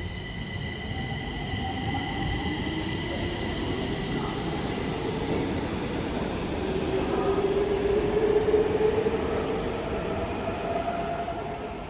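Stockholm Metro train running on the track, with a rumble and a whine from its traction motors that rises in pitch as it speeds up. It is loudest about eight or nine seconds in. A set of steady high tones fades away over the first few seconds.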